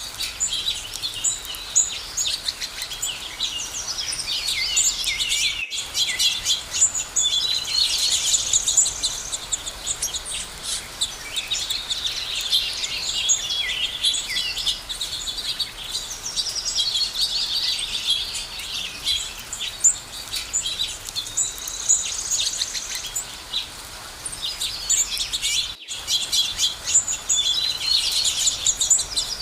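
Many small birds chirping and singing at once, a dense chorus of quick, high chirps that overlap without pause. The sound cuts out for an instant twice, about six seconds in and again near the end.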